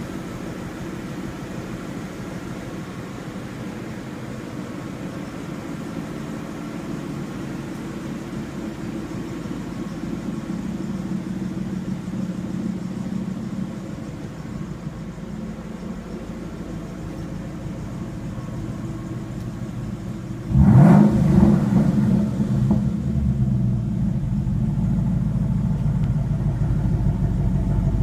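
2012 Ford Mustang Boss 302 Laguna Seca's 5.0-litre V8 idling steadily. About twenty seconds in, a quick rev rises and falls back, and the engine stays louder after it.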